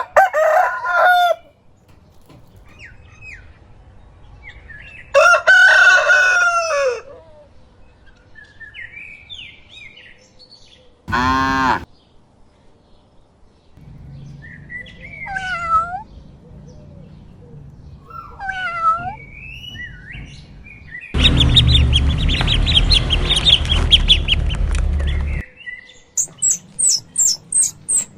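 Chickens: a rooster crowing, with hens clucking and birds chirping in between. There is a loud stretch of fast, repeated calling a little past the middle, and rapid high peeping near the end.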